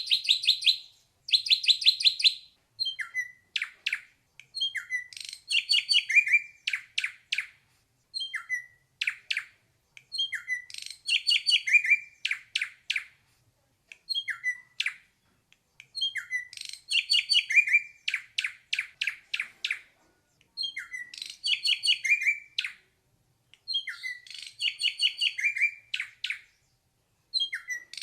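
Ashy drongo singing: short phrases of quick, sharp whistled and chattering notes, repeated every two to three seconds with brief pauses between.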